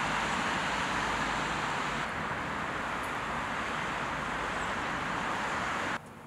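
Steady rushing background noise that eases slightly about two seconds in and cuts off suddenly near the end.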